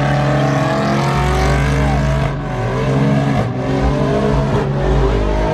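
Truck engine revving hard, its pitch climbing and dipping over a steady low rumble, with a couple of brief drops in revs a little past the middle.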